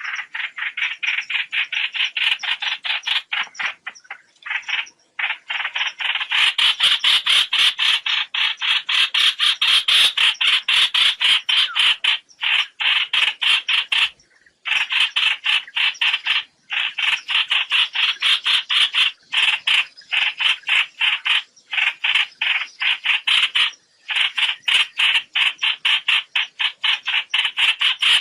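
Recorded flock call of the trao trảo bird, played as a lure for net trapping: a rapid rattling run of short, sharp notes, about seven a second, breaking off for brief pauses and starting again.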